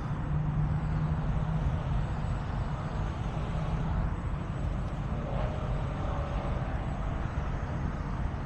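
Heavy truck diesel engine idling steadily with a low, even hum, and a faint higher whine coming in for about two seconds in the middle.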